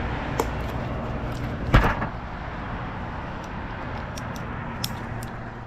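An engine running steadily, with several sharp knocks over it, the loudest about two seconds in.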